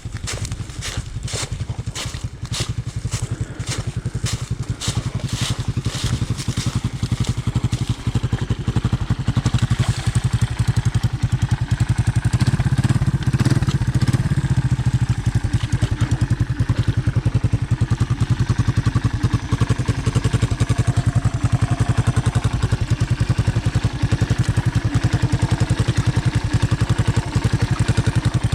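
Honda ATC 200M three-wheeler's single-cylinder four-stroke engine running steadily, growing louder about twelve seconds in. A rapid crackling clatter sits over the engine for the first several seconds.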